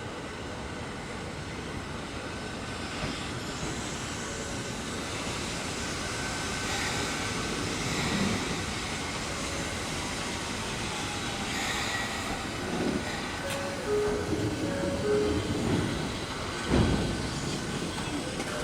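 Ohmi Railway MoHa 800 series electric train running on the rails with a steady rumble. A few short tones come about two-thirds of the way in, and a single sharp knock comes near the end.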